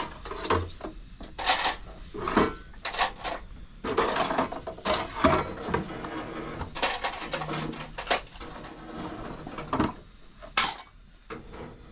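Irregular knocking and clattering of hard objects being handled, with many short, uneven strikes that thin out near the end.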